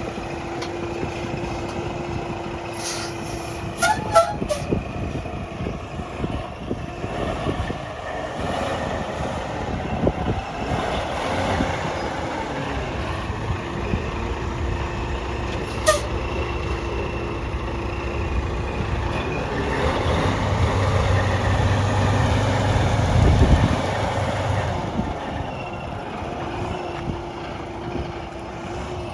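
2019 Freightliner Cascadia semi truck's diesel engine running steadily. A few sharp clicks come about four seconds in and another at about sixteen seconds. From about twenty seconds in, the engine runs louder for a few seconds.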